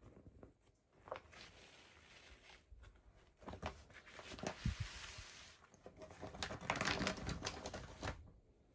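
Toy packaging crinkling and tearing as it is opened by hand, in two stretches of rustling with sharp clicks and taps scattered through them.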